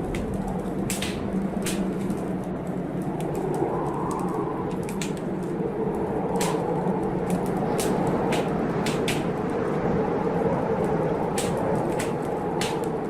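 Blizzard wind rushing steadily, swelling slightly at times, with a wood fire crackling: a dozen or so sharp pops scattered over the wind.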